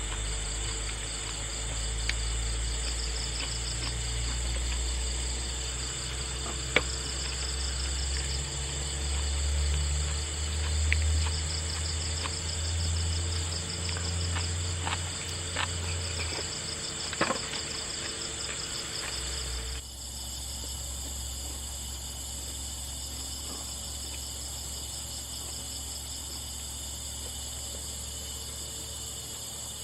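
Insects trilling steadily, a fast pulsing high-pitched chorus over a low rumble, with a few sharp clicks. The low rumble and some of the background drop away abruptly about two-thirds of the way through.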